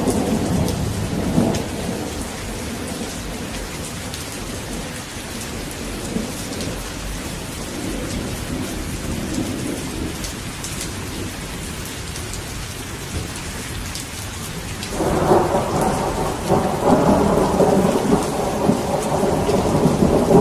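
Steady rain falling, with thunder. A rumble dies away in the first couple of seconds, then a new peal starts suddenly about three-quarters of the way through and keeps rumbling to the end.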